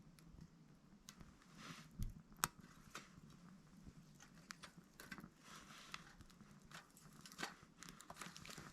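Small wood fire crackling faintly in a titanium hexagon wood stove: irregular sharp pops and snaps, the two loudest about two seconds in, half a second apart.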